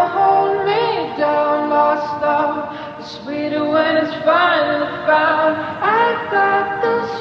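Music track of unaccompanied singing voices, a female voice most prominent, with sustained, wavering notes.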